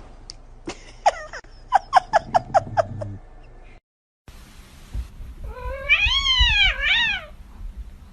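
A cat meowing: a quick run of about seven short cries, then, after a cut, one long meow that rises and falls, followed by a shorter one.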